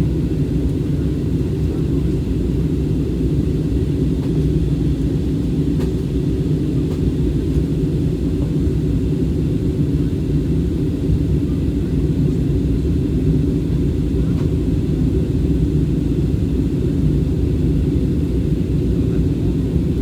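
Steady low rumble of an airliner in flight, heard from inside the cabin: engine noise and rushing air, unchanging throughout.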